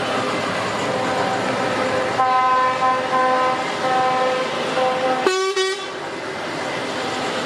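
Lorry air horns sounding from a passing truck convoy: a multi-note horn gives several blasts in a row, then another horn gives one short, louder, harsher blast. A steady hum of traffic and crowd lies beneath.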